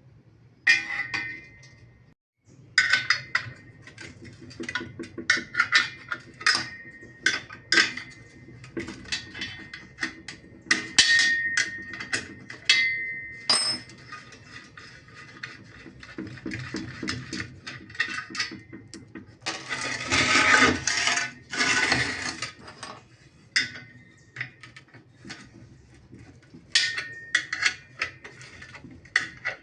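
Irregular metal-on-metal knocks and clinks, some leaving a short ringing tone, as metal parts of a wheel-truing stand are handled and tapped. About two-thirds of the way through, a couple of seconds of rough scraping.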